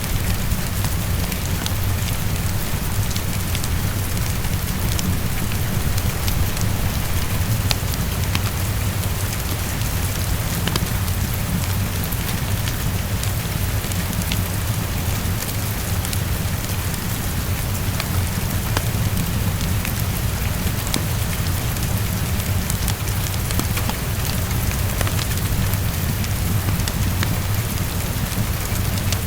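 Steady heavy rainfall with a constant deep low rumble underneath, and scattered sharp crackles of a wood fire.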